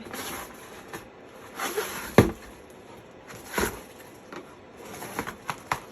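Handling and unpacking noises from an electric kettle and its packaging: a sharp knock about two seconds in, another knock a little over a second later, then a quick run of light clicks and taps near the end.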